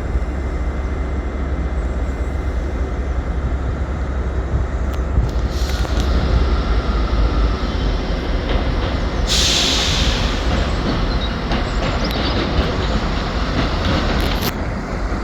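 A passenger train running into a station platform with a steady low rumble. A loud hiss of air, typical of air brakes, comes about nine seconds in and lasts about a second.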